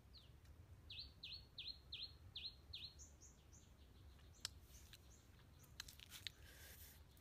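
A bird singing faintly: a quick run of about six short, high notes that slide downward, then a few fainter, higher notes. A single sharp click about four seconds in.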